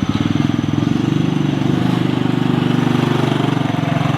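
Small engine starting up abruptly and running with a steady, rapid putter.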